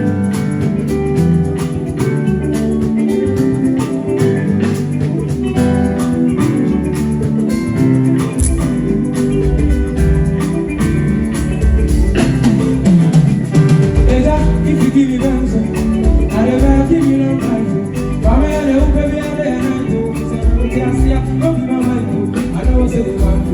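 Live band playing through a sound check: guitar over a band backing, with a heavy, rhythmic bass line coming in about eight seconds in.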